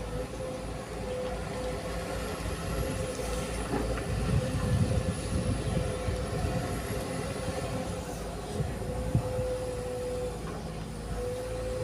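Heavy diesel machinery running steadily with a steady whine, a louder rough rumble about four to five seconds in and a sharp knock about nine seconds in.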